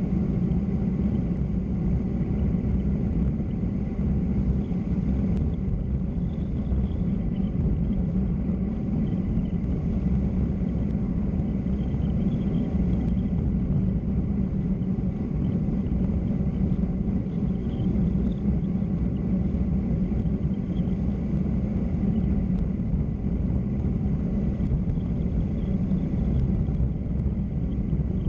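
Steady low rumble of road and wind noise while travelling down a mountain road, with faint short high chirps now and then.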